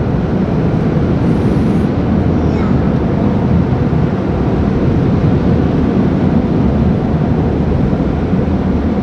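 Automatic car wash's air dryers blowing over the car, a steady loud rushing heard from inside the cabin.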